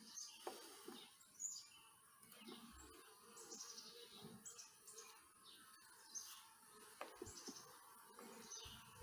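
Faint songbird chirps: short high calls repeated every second or so, over quiet outdoor background.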